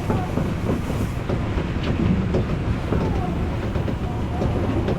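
Odakyu Line electric train running along the track: a steady rumble of wheels on rail with scattered clicks from the rail joints, heard from inside the front car.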